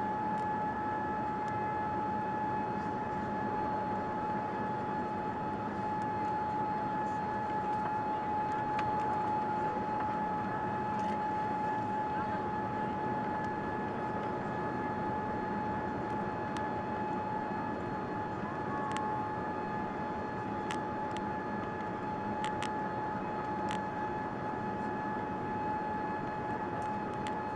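Boeing 787-9 airliner in flight: a steady rush of engine and airflow noise with a constant high tone running through it.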